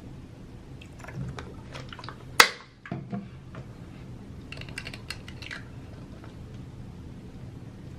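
Small hard objects being handled and set down: scattered light clicks and knocks, one sharp clack about two and a half seconds in, then a quick run of small clicks a couple of seconds later.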